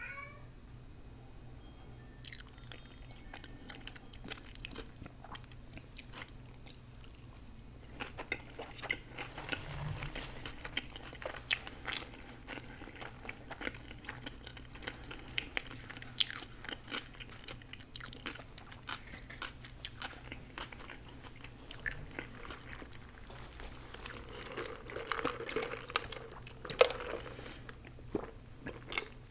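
Close-miked eating: a person chewing and biting food, with many sharp crunches and wet mouth clicks that grow busier about a quarter of the way in and one loud crunch near the end.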